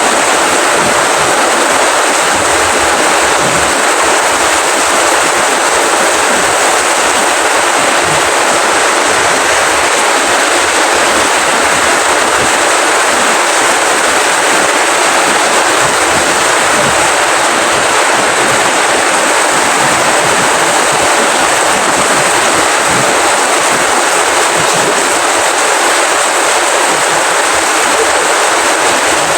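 Steady rainfall, an even, unbroken hiss with no single drops or gusts standing out.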